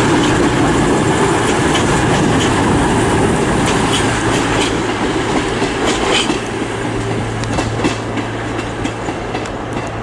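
Diesel passenger train running on the station tracks, its wheels clicking over rail joints; a steady low engine hum comes in about halfway through as the overall noise eases slightly.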